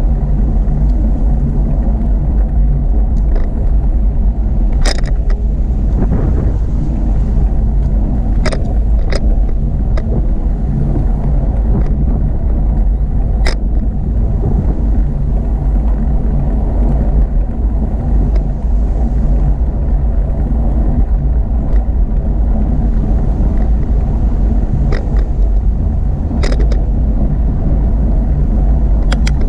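Steady, loud low rumble of wind and road noise on a camera riding along on a bicycle, with occasional sharp clicks.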